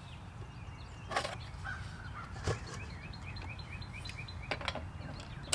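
A bird chirping in a quick run of short rising notes, about five a second, over steady outdoor background noise. A few sharp clicks and knocks come from handling the wheel's center cap and a socket wrench.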